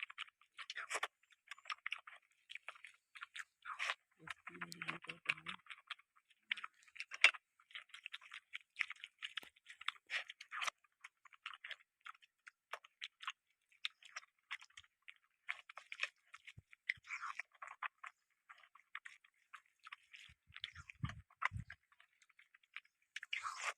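A person chewing and eating food: a dense, irregular run of wet chewing clicks, smacks and small crunches, with a brief low hum about five seconds in.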